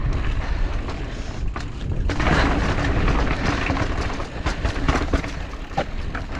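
Mountain bike descending a rocky, loose trail, heard from the rider's camera: wind buffets the microphone with a heavy rumble while the tyres crunch over loose rock and the bike clatters with many small knocks. It gets louder about two seconds in.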